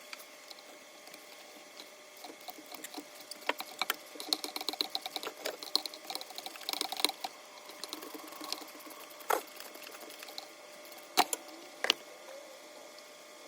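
Ratchet wrench on a 5/8 inch spark plug socket and long extension clicking in quick runs as an old spark plug is unscrewed, followed later by three sharp metallic clinks.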